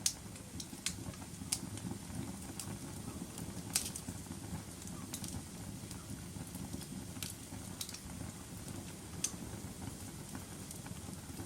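Wood fire burning in a fireplace: a steady low rumble of the flames with irregular sharp crackles and pops, the loudest at the very start, about four seconds in and about nine seconds in.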